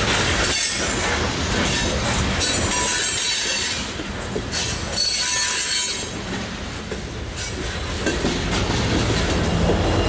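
Loaded coal hopper cars of a freight train rolling past with a steady rumble, their wheels squealing and hissing against the rail in several bursts.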